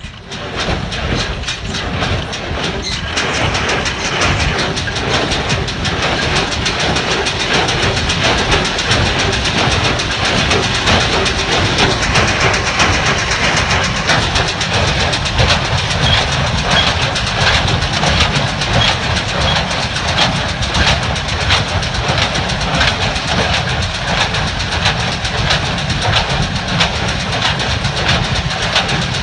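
New Holland 575 small square baler running, its mechanism clattering in a steady rapid rhythm over the steady running of the tractor engine that drives it.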